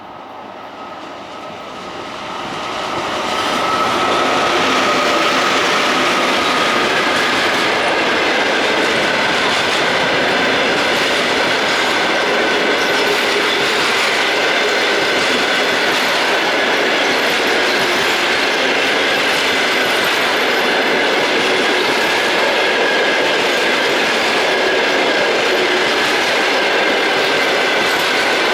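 Passenger train hauled by an EP1 electric locomotive passing close by. It grows louder over the first few seconds, then holds steady as the coaches roll past, wheels on the rails with a thin high ringing tone.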